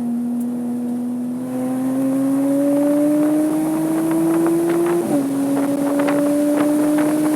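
Porsche 987.2 Cayman S flat-six engine pulling hard under acceleration, its pitch climbing steadily. About five seconds in the pitch drops sharply with an upshift, then starts climbing again.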